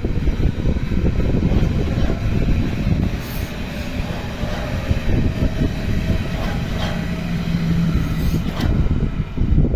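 Electric S-Bahn train (BR481 multiple unit) running on the track, a steady loud rumble of wheels and running gear. A brief steady hum rises out of it about seven seconds in.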